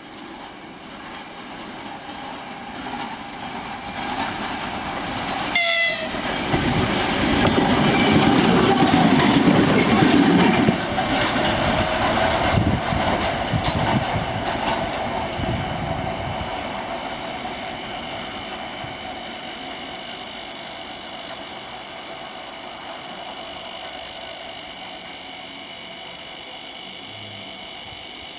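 2TE25KM two-section diesel locomotive running light past: a brief horn blast about six seconds in, then its diesel engines and wheels clattering over the rail joints swell to a loud pass and slowly fade away.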